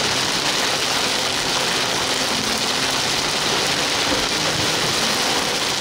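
Heavy rain hitting a car as it drives through a thunderstorm: a loud, steady hiss of rain, with the car's engine running low underneath.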